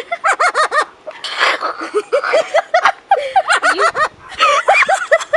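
A pet parrot giggling: several quick runs of short, repeated laugh-like notes.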